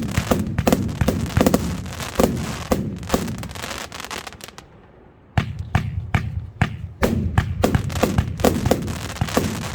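Fireworks compound battery (cake) firing shot after shot in quick succession, each a sharp bang. About halfway through the firing thins out briefly to a lull, then picks up again at full pace.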